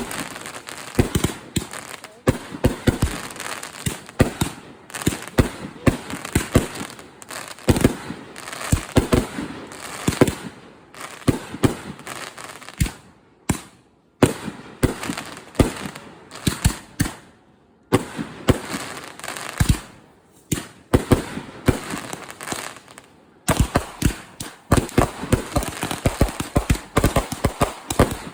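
500 g consumer multi-shot firework cakes firing: rapid volleys of bangs and crackles with short lulls between them, and a very fast string of shots near the end.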